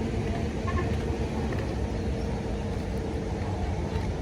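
A road vehicle's engine running steadily, heard as a low drone with a steady hum.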